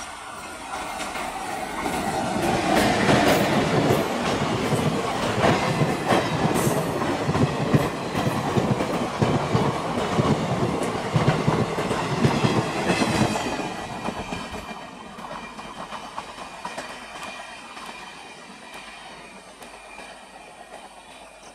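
Passenger train hauled by a WAP-4 electric locomotive passing at speed, its coaches' wheels clattering over the rails. The sound grows loud about two seconds in, stays loud for roughly ten seconds, then fades steadily as the train moves away.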